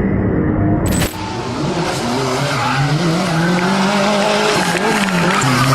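Music for about the first second, then a sharp cut to a rally car's engine revving up and down, its pitch rising and falling, over a steady rushing noise.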